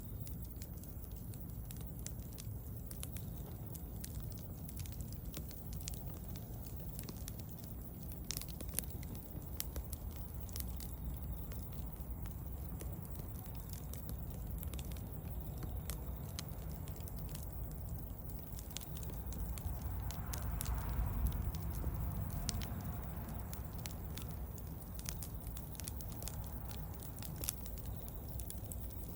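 Wood bonfire burning, crackling with scattered sharp pops over a steady low rumble of the flames.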